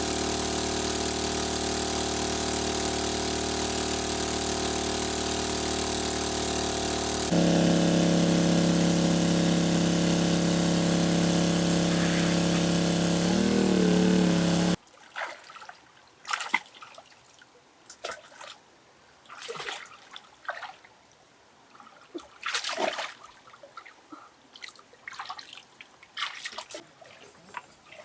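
A small engine running steadily; it steps up to a louder, fuller note about a third of the way in, wavers, then cuts off abruptly about halfway through. After that come irregular small splashes and drips of water.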